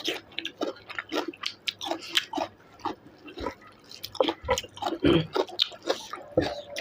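A person chewing and eating chicken with wet mouth sounds: irregular smacks, clicks and bites.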